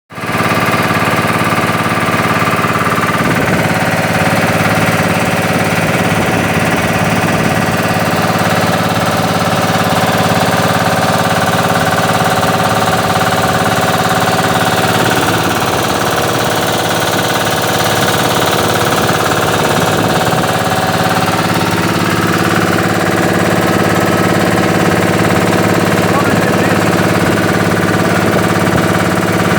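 A boat's engine running steadily and loud throughout.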